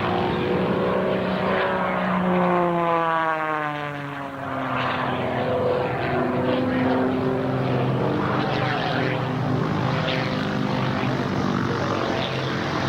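Piston-engine propeller aircraft running. One engine note falls steadily in pitch as a plane passes, about two to five seconds in, then another engine note holds steady.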